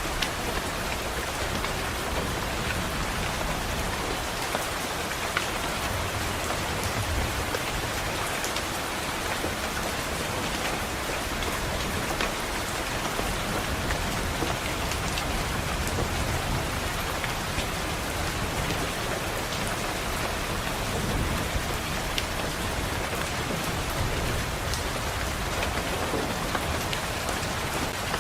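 Steady rain pattering on a window, with scattered sharp drop ticks and low thunder rumbles swelling up about a third of the way in and again about three-quarters through.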